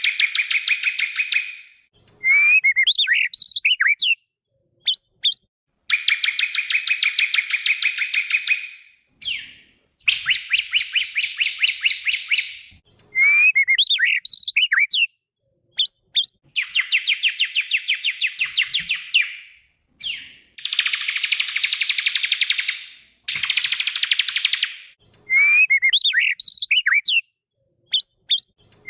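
White-rumped shama (murai batu) singing: long rapid trills alternate with short phrases of quick sweeping whistled notes, over and over, with brief pauses between phrases.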